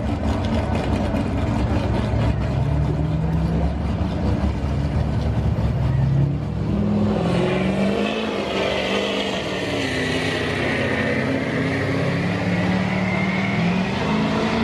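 Diesel pickup truck engine running hard under load during a truck pull, its pitch climbing for the first several seconds. About halfway through, the sound changes and a high whine rises and falls over the engine.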